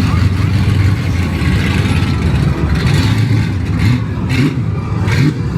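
Car engine running with a steady low rumble, with a few short knocks or clicks about four to five seconds in.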